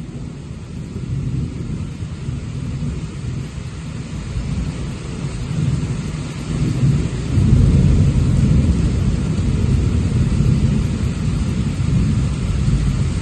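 Thunder rumbling over steady rain. The rumble swells about halfway through and stays loud.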